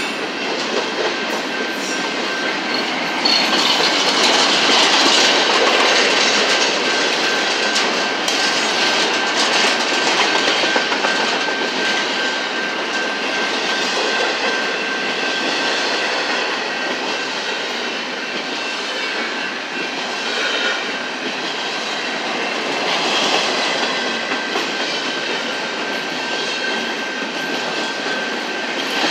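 Empty double-stack intermodal well cars of a freight train rolling past close by: a steady rumble and clatter of steel wheels on rail, with a thin, steady high-pitched wheel squeal running under it.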